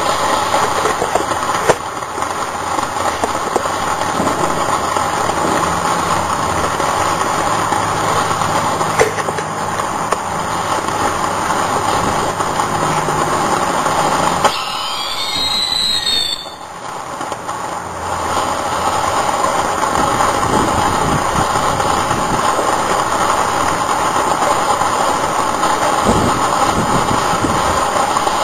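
Ground fountain fireworks spraying with a steady loud hissing rush. About halfway through it dips for a couple of seconds and whistling tones glide up and down, then the spray resumes.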